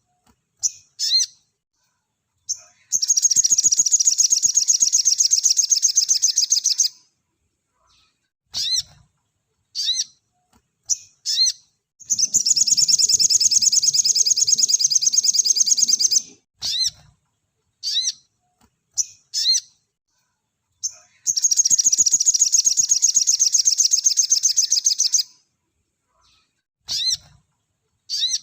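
Sogon (little spiderhunter) singing in rapid-fire bursts: short, sharp high chirps between three long, fast trills of about four seconds each.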